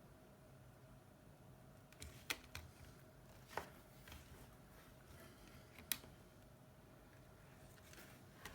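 A handful of short, sharp clicks and taps of small metal tools and phone parts being handled on a workbench, about five in all, with near silence between them.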